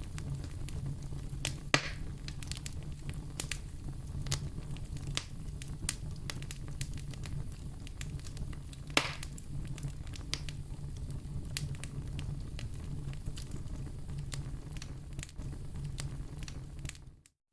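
Wood fire crackling in a fireplace: a steady low rumble of flame with scattered sharp snaps, two of them louder pops. The sound cuts out briefly near the end.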